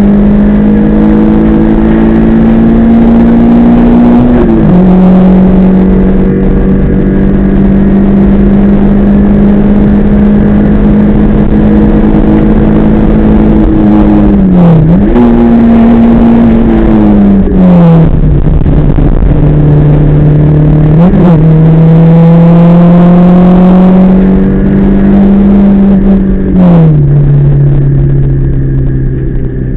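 Rally car engine pulling hard at high revs, heard from inside the cabin. Its pitch holds steady between several gear changes, dropping sharply at shifts and rising again as it revs back up.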